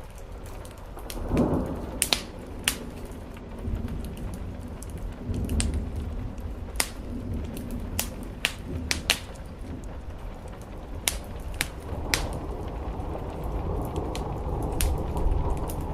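Wood fire crackling with sharp, irregular pops over steady rain on a roof, with low rumbles swelling a few times.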